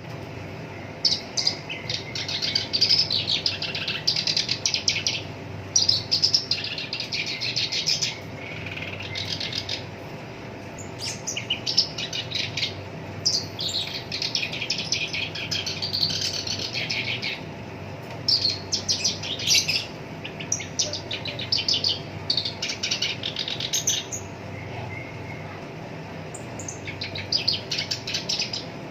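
Black-browed reed warbler singing: runs of fast, harsh, rapidly repeated notes in phrases of one to three seconds, broken by short pauses.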